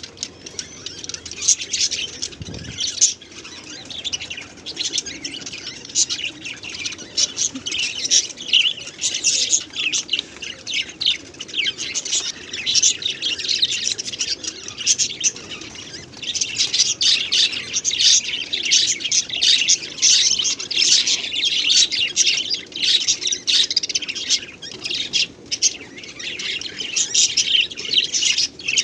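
Small birds chirping continuously, with many short, high calls overlapping, growing busier in the second half.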